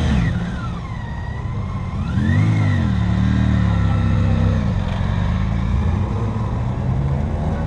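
Car engine revving up and dropping back right at the start, revving again about two and a half seconds in, then running more steadily as the car drives away.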